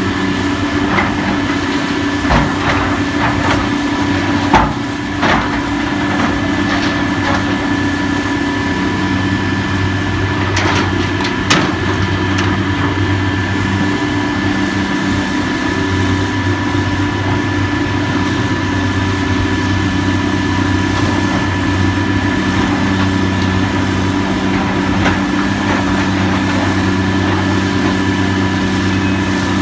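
Heavy demolition machine's diesel engine running steadily, with a scattering of sharp knocks and cracks of breaking wood and debris in the first dozen seconds.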